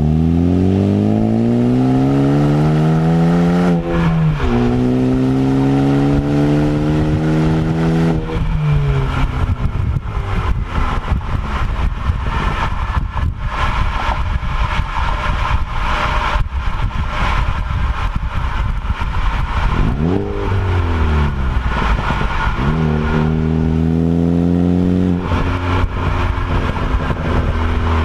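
Ford Focus ST with an MBRP aftermarket exhaust accelerating hard: the engine note climbs, drops at a gear shift about four seconds in, and climbs again until it lets off around eight seconds. A long stretch of steady road and engine noise follows. Past the middle there is a quick rev that rises and falls, then another pull that climbs and settles near the end.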